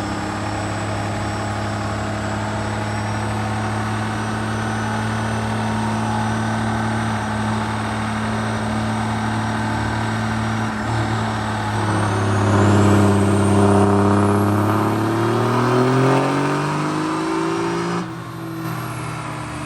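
Diesel pickup truck engine on a chassis dynamometer, running steadily for about twelve seconds. It then makes a full pull, with the engine note and a high whine rising together and growing louder. About eighteen seconds in it cuts off suddenly and the whine winds down.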